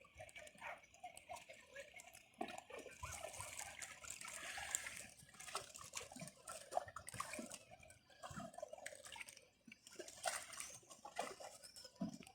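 Faint sea water lapping and splashing, with a swell of washing noise a few seconds in and scattered small clicks and knocks.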